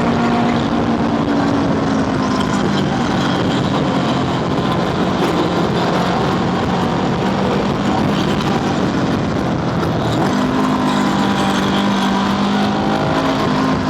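Honda scooter engine running at a steady cruising speed, with wind and road noise rushing over the rider's microphone; the engine note sags a little and then climbs again in the last few seconds.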